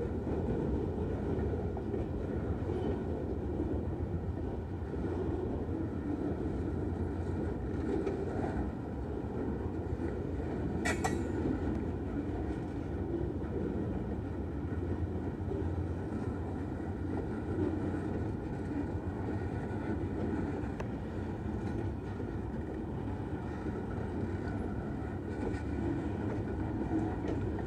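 Freight cars rolling past at a grade crossing: a steady rumble and rattle of centerbeam lumber flatcars and open-top gondolas going by. One sharp clank comes about eleven seconds in.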